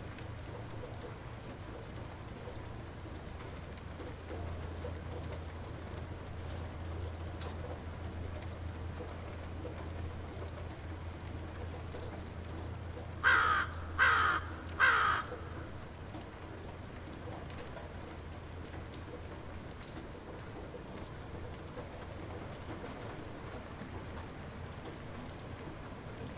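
Light rain falling steadily over a low, even hum. About halfway through, a bird gives three loud, harsh calls, each about a second apart.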